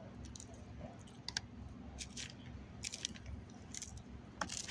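A person chewing and biting a mouthful of grilled chicken salad close to the microphone: irregular wet mouth clicks and small crunches, with a louder cluster near the end.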